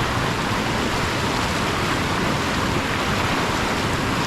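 Whitewater of a creek rapid rushing, a steady even sound of moving water.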